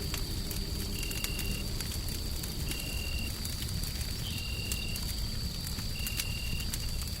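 Wood fire crackling with scattered sharp pops over a steady low rumble of white noise. A faint constant high whine runs through it, and a short high tone chirps about every second and a half to two seconds.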